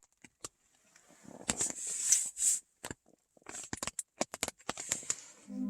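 Scattered sharp clicks and short rustling bursts with dead-silent gaps between them. Soft ambient music with a singing-bowl drone comes in just before the end.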